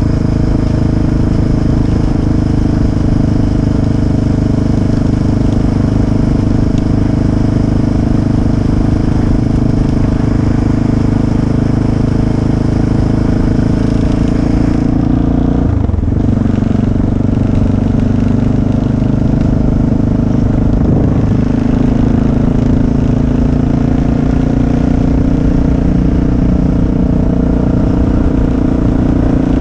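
Motorcycle engine running steadily while riding, with a brief dip in pitch about halfway through.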